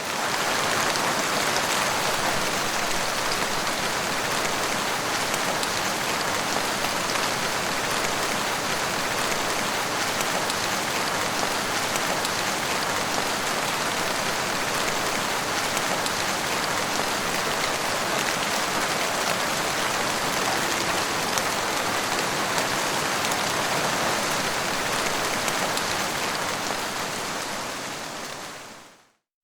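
Steady rain falling and pattering on surfaces, an even hiss with no thunder. It fades in quickly at the start and fades out just before the end.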